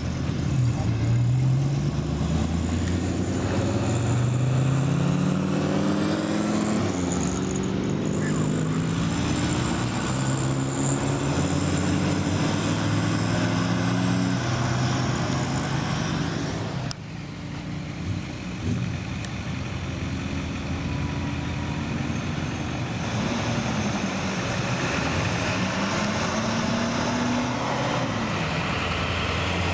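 Classic cars driving off one after another, engines accelerating with several rising pulls over a steady low idle rumble. There is a sudden drop about halfway through, then more engines pulling away.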